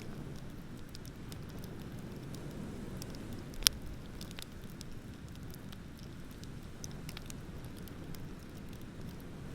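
Wood bonfire crackling with scattered small snaps and one loud pop about four seconds in, over a steady low rumble of ocean surf.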